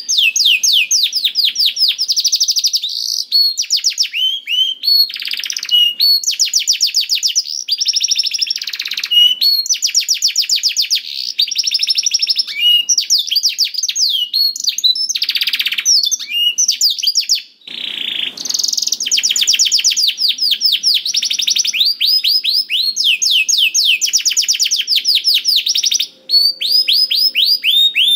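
Domestic canary singing a long, continuous song of fast repeated trill notes, with brief breaks about 18 and 26 seconds in.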